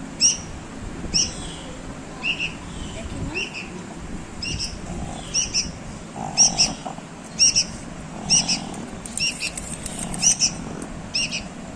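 A bulbul chirping: a dozen or so short, high chirps repeated about once a second, with a steady background hiss.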